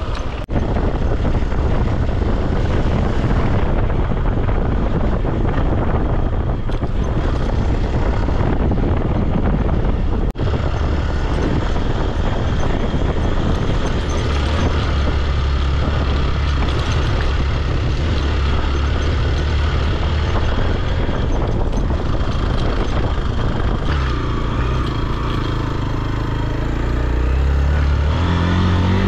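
Motorcycle engine running under load on a steep off-road trail, with wind and road noise. The engine note climbs near the end.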